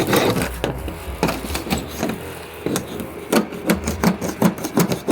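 Hand scraper scraping old paint off a surface in repeated short strokes, coming faster, about three or four a second, in the second half.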